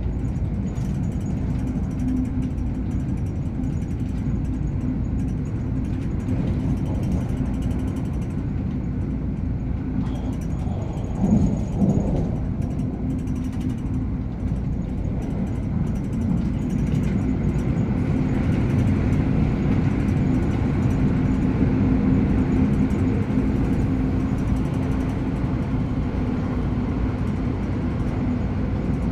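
MTR Airport Express CAF electric train running at speed, heard from inside the passenger cabin: continuous wheel-and-track running noise with a steady low hum. There is a brief louder surge about eleven seconds in, and the noise grows louder from about halfway through.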